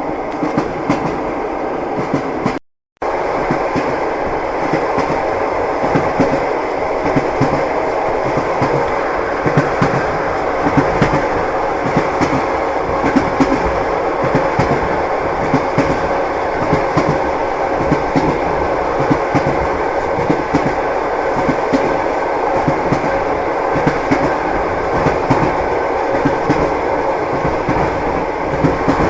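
Moving passenger train heard from inside a compartment: a steady running rumble with the clatter of wheels over the rail joints. The sound cuts out completely for a moment about three seconds in, then resumes.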